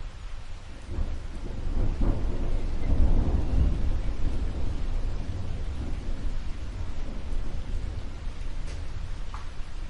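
A roll of thunder over steady rain: a deep rumble that builds from about a second in, is loudest around the middle and slowly dies away, with the rain hissing throughout.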